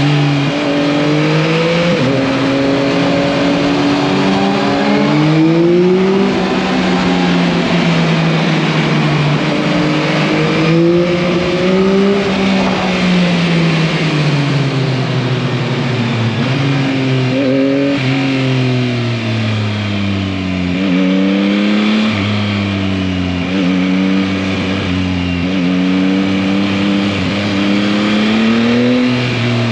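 Yamaha MT-09's 890 cc three-cylinder engine under way, revs climbing and dropping sharply several times as it pulls through the gears. Then the revs ease off for several seconds before rising and falling in shorter swells, over a steady rushing noise.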